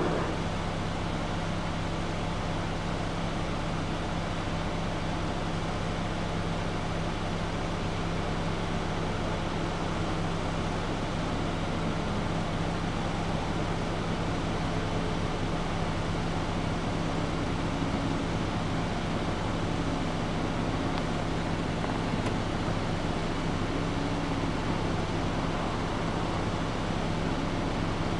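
Steady low hum of an idling vehicle engine, with an even rumble and no change in pitch.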